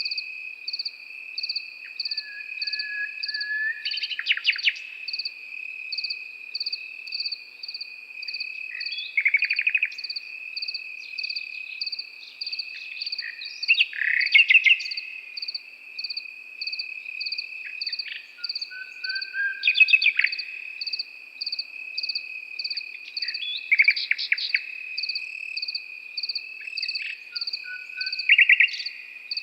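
A nightingale sings short, varied phrases every few seconds: rapid rattling strokes and brief low whistles. Behind it, crickets keep up a steady high trill, and another chirps in regular pulses a little more than once a second.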